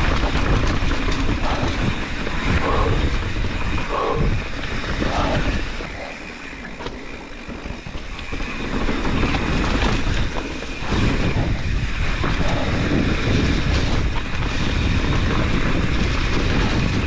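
Mountain bike riding down a wet trail: wind rushing over the microphone mixed with tyre noise and rattling from the bike. It eases off for a few seconds about six seconds in, then picks up again.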